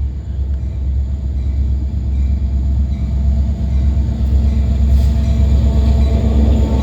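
Indiana Harbor Belt freight train's diesel locomotive running past, a deep steady rumble that gradually grows louder as it nears.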